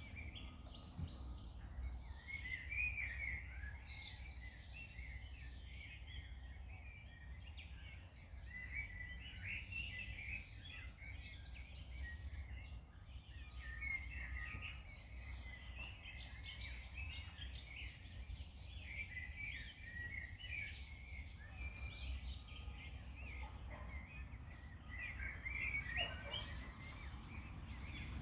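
Many small birds chirping and singing at once, quick overlapping calls, over a steady low rumble.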